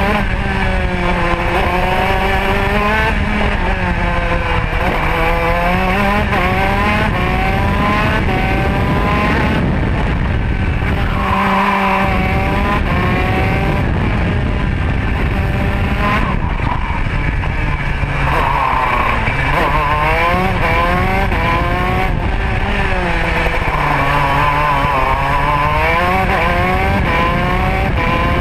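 Modena two-stroke kart engine at racing revs. The pitch climbs and falls every few seconds as it accelerates out of corners and backs off into the next ones.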